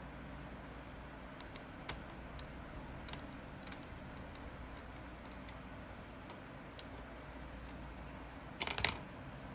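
A few light, scattered clicks over steady low background hum, then a short rattling clatter of clicks near the end.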